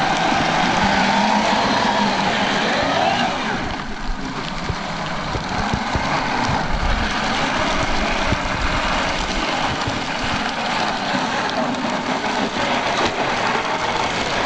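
Kyosho Blizzard RC snowcat's electric motor and tracks running through snow: a motor whine that rises and falls in the first three seconds over a steady rough clatter with irregular low knocks.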